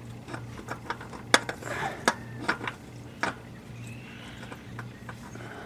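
A few sharp metallic clinks and taps of tools and parts being handled during an oil change, over a low steady hum.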